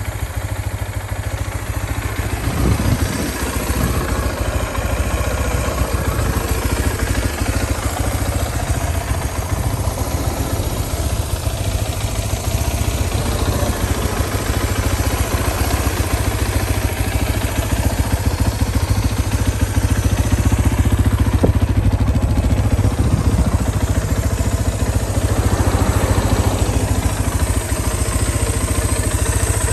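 Suzuki DR250's single-cylinder four-stroke engine running at idle, steady throughout.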